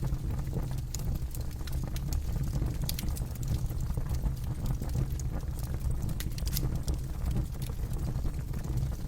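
Campfire burning with a steady low rumble of flames and irregular sharp crackles and pops from the wood, busiest about three seconds in and again past the middle.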